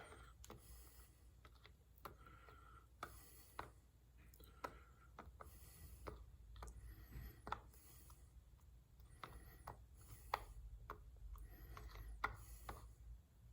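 Faint, irregular small clicks and rubbing of a headlight motor's gears and parts being handled while grease is worked onto them.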